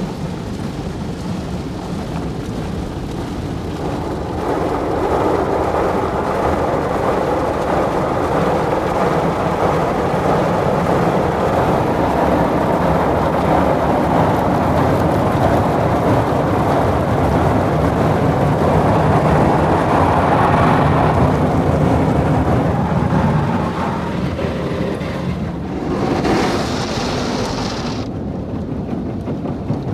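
Hanna automatic car wash brushes scrubbing over the car amid spraying water, a steady rumbling wash of noise. It grows louder about four seconds in and eases off near the end.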